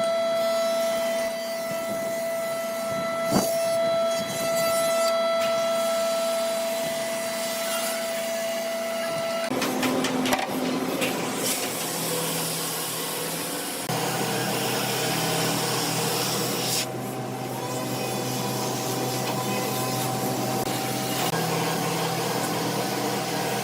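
Woodworking power machinery running with a steady whine. The sound changes abruptly about a third of the way in and again just past halfway, as a different machine or cut takes over.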